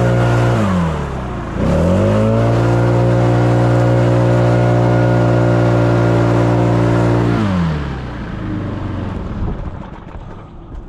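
Small two-stroke engine of a gas leaf blower running at full throttle. It is let off briefly about half a second in and quickly revved back up, then held steady until the throttle is released near the end and the engine dies away.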